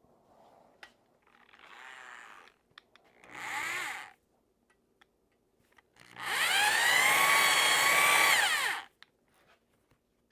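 Electric drill driving a stone cylinder hone in an iron cylinder bore: a few short trigger bursts, then a longer run of nearly three seconds that rises in pitch, holds and winds down.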